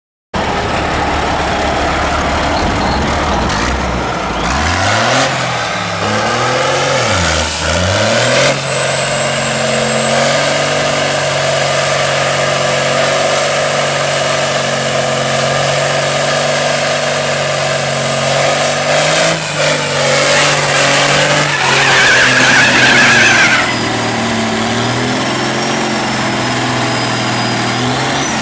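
Diesel race truck engine revving: the pitch swings up and down a few times, then is held high and steady for about ten seconds with a thin high whistle over it, before easing back.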